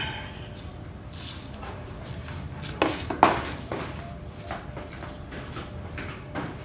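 A few sharp knocks and clatters of objects being handled, the two loudest close together about three seconds in, over a steady low hum.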